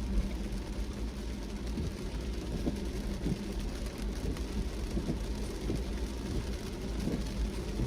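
Car driving in rain: a steady low rumble of engine and tyres on the road, with rain noise above it and a few soft knocks scattered through.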